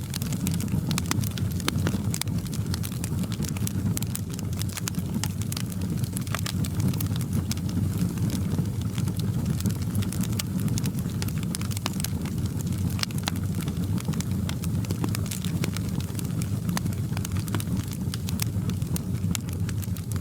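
Wood fire in a fireplace crackling, with a steady low rumble and frequent, irregular sharp crackles and pops.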